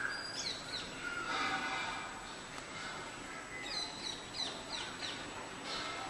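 Short, high bird chirps in two quick bursts, about half a second in and again around four seconds in, over a steady background hiss.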